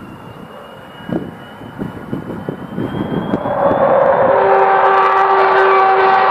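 Avro Vulcan XH558's four Rolls-Royce Olympus turbojets on a flyby, giving the famous Vulcan howl. A thin whistle creeps upward in pitch at first. About halfway through, the loud engine noise swells in, with several steady howling tones riding over it, and holds.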